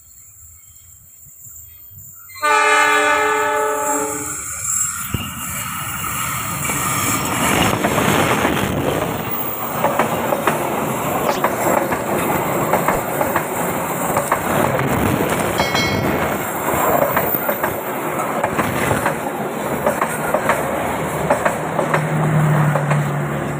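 A train horn sounds a chord for about two seconds, then a passenger train runs past close by: a loud rumble of wheels on the rails with rapid clacking over the rail joints. Near the end a low steady hum joins in as the generator car goes by.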